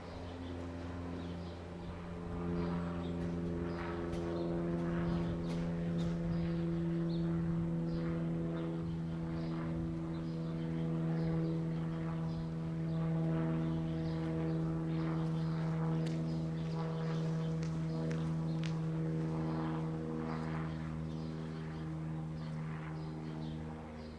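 Train at a level crossing, giving a steady low hum made of several even tones, with scattered light clicks over it.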